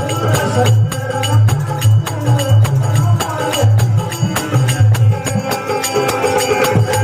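Rajasthani devotional folk music: a bhajan with dholak and a steady, fast beat of hand percussion under a moving melody line.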